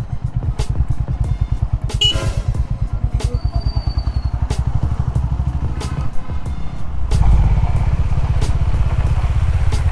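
Honda H'ness CB350's single-cylinder engine running as the motorcycle is ridden, its exhaust pulsing steadily; the engine gets louder about seven seconds in as the throttle opens. A short burst of noise comes about two seconds in.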